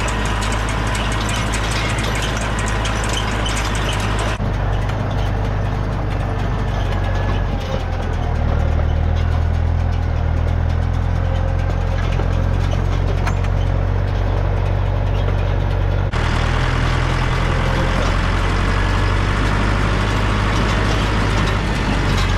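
Farm tractor engine running steadily at working speed while pulling a hay rake. The engine note shifts abruptly twice, once about four seconds in and again about sixteen seconds in.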